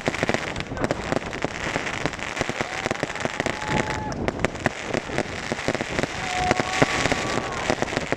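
Fireworks going off: a dense crackle of rapid small pops over a hiss, with a few brief thin whistling tones.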